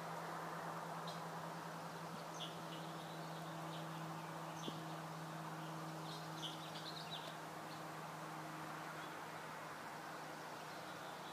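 Scattered short, high bird chirps, busiest around the middle, over a steady low hum and a wash of outdoor background noise.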